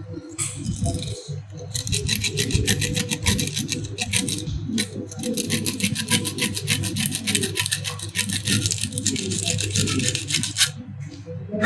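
Sandpaper rubbed back and forth in quick, even strokes on an electric iron's thermostat contact points, starting about two seconds in and stopping near the end. The strokes scour off a rust-like coating that kept the contacts from closing and the iron from heating.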